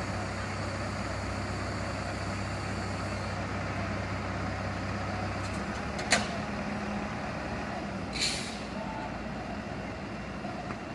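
Fire truck engine running steadily. There is a sharp click about six seconds in and a short burst of air hiss, like an air brake releasing, about two seconds later.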